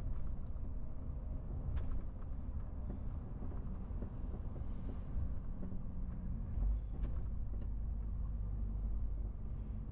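MAN TGX 18.470 truck's straight-six diesel running steadily on the move, a low rumble with road noise, a few light clicks and a brief low thump about two-thirds of the way in.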